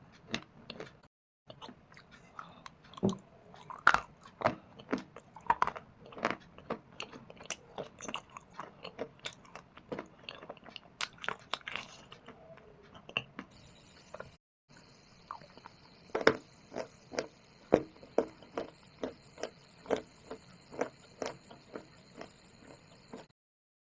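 Close-up biting and chewing of shale stone and dry clay: a rapid run of sharp, brittle crunches, several a second, broken by three short dead-silent gaps where the recording is cut. A faint steady high hiss runs under the crunches in the second half.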